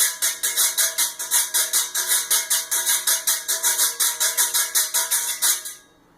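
Stainless-steel güiro scraped with a six-tine metal comb, playing the basic salsa pattern as a steady rhythm of quick scrapes, about five a second. The scraping stops shortly before the end.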